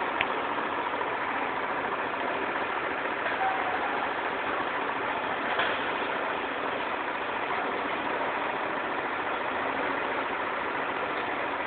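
Steady engine-like din from nearby construction machinery, with a couple of faint clicks.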